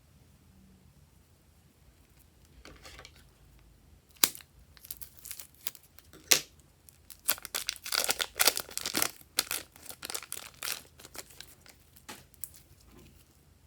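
Irregular crinkling and crackling from crinkly material being handled, building up about a third of the way in, with a few sharp snaps standing out.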